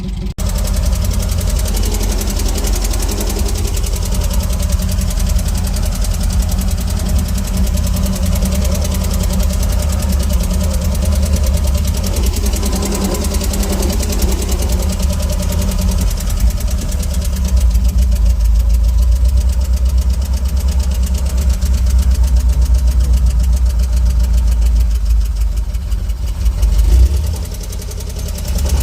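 UAZ Bukhanka van engine running steadily at idle, with a brief rise and dip in level near the end.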